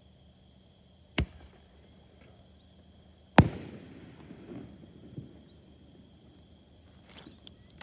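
Aerial fireworks shells bursting: two sharp booms about two seconds apart, the second louder with a rolling rumble after it, then a few faint pops. A steady high insect trill runs underneath.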